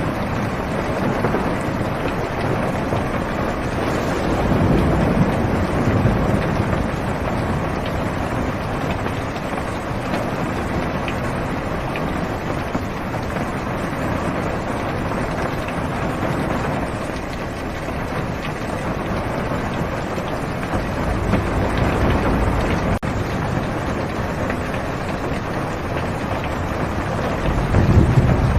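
Heavy rain pattering steadily on a car's roof and windows, heard from inside the cabin. Low thunder rumbles swell up three times: about five seconds in, around twenty-two seconds, and near the end.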